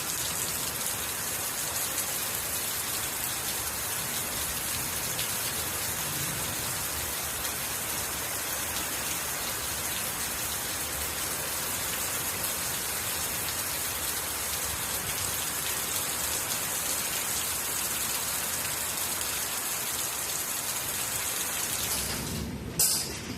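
Heavy rain pouring down, a dense steady hiss of water on hard surfaces, which cuts off suddenly near the end.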